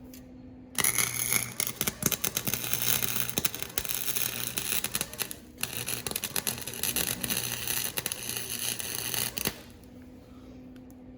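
Electric welding arc crackling and sizzling on a steel exhaust pipe in two runs, with a short break about five seconds in. Beneath it is the steady electrical hum of a cheap welder.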